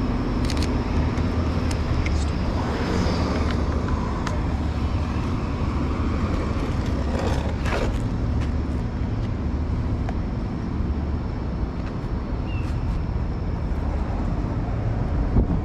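Steady street noise with a low rumble, like road traffic or rolling on pavement, and a few short clicks scattered through it.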